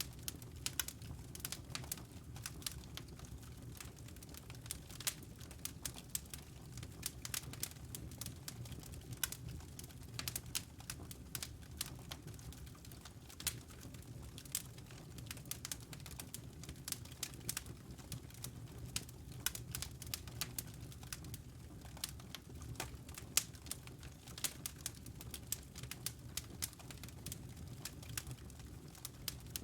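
Wood logs burning in a fireplace, crackling with many sharp irregular pops over a low steady rumble.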